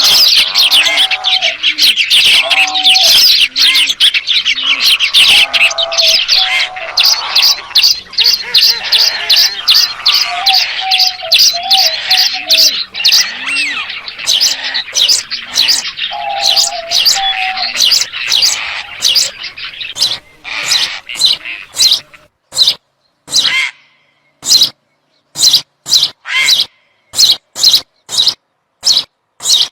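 Many small birds chirping and twittering together in a dense chorus, with low repeated notes underneath. After about twenty seconds it gives way to single short, sharp calls repeated roughly twice a second with silence between them.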